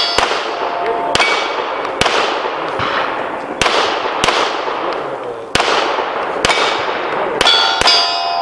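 Handgun shots fired in quick succession at steel plate targets, about eight shots with gaps of roughly a second. Several hits leave the struck steel ringing, and a quick pair of shots comes near the end.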